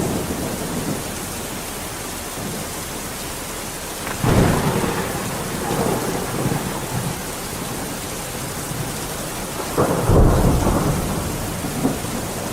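Steady rain with rolling thunder: a constant hiss of rainfall, with a low rumble of thunder swelling about four seconds in and another, louder one near the end.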